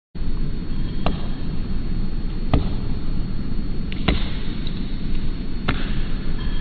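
A bird chiselling at tree wood with its beak: four sharp knocks roughly a second and a half apart, over a steady low rumble.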